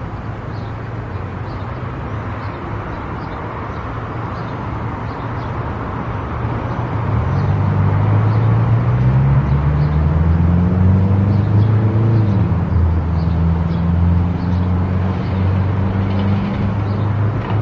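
Car driving on a highway: steady tyre and road noise, joined about seven seconds in by a louder low drone that holds until the end.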